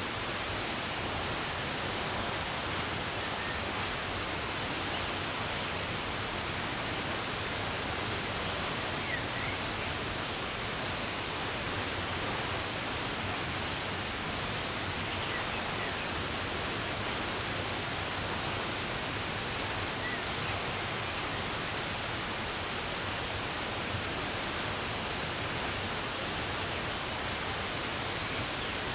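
Steady, even rush of running water, with a few faint, brief bird chirps now and then.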